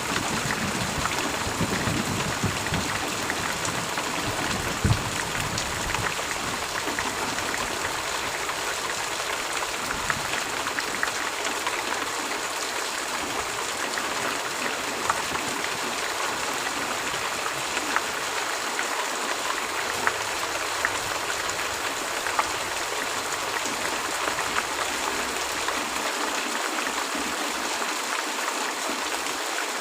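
Steady heavy rain, a dense even hiss with scattered drop ticks. A low rumble of thunder dies away over the first few seconds.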